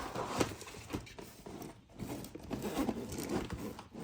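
A backpack's zipper being opened and the bag handled, giving irregular crinkling rustles and a few sharp clicks, with a brief lull about two seconds in.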